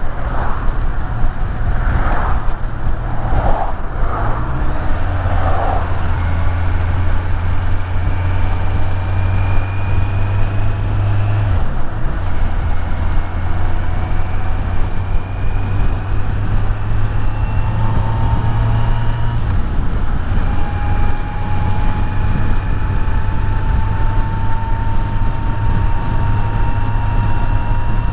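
Kawasaki Z900's inline-four engine running under way with a steady rush of wind and road noise. Its note climbs slowly and falls back twice, about twelve and twenty seconds in.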